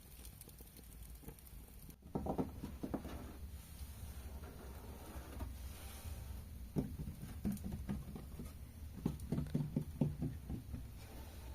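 ASMR tapping on hard surfaces: quick flurries of soft, close taps that start about two seconds in and come in runs with short gaps, over a low steady background.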